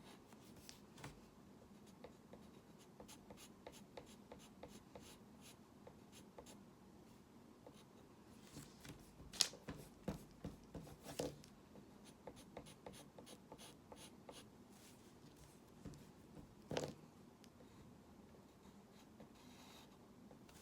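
Faint scratching of hand-drawing strokes, many short strokes in a row, with a few louder taps of the drawing tool about ten, eleven and seventeen seconds in.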